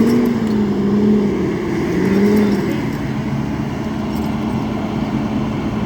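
A vehicle engine revving, its pitch rising and falling three times over the first few seconds, then holding a steady drone. This is a vehicle trying to move off on a snowy, icy highway.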